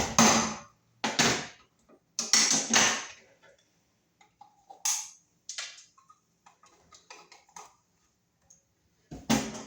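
Electrical cable scraping and rustling against a plastic electrical box as it is pushed through, in several short bursts with small clicks and taps in between.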